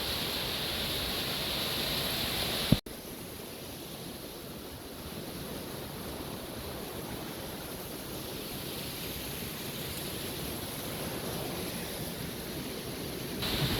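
Steady rush of a small mountain waterfall and stream. About three seconds in there is a sharp click, after which the rushing continues somewhat quieter.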